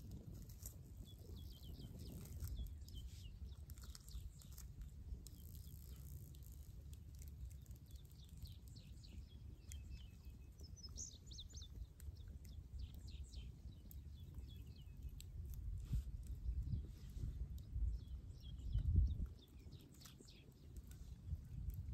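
Wild birds chirping and calling in short high notes throughout, over a low rumble that is loudest about nineteen seconds in.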